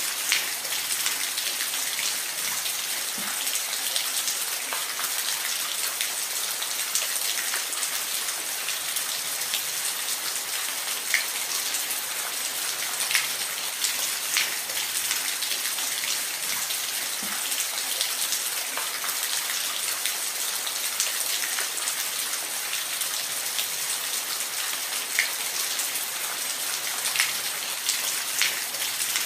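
Falling water hissing steadily, with scattered small drop splashes standing out now and then.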